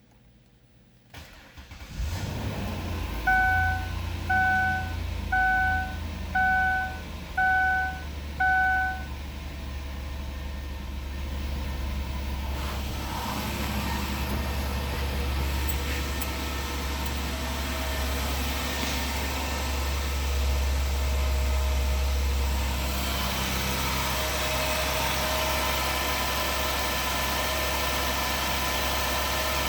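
2005 Ford Taurus 3.0-litre V6 being started and then idling steadily. A warning chime beeps six times, about once a second, just after it starts.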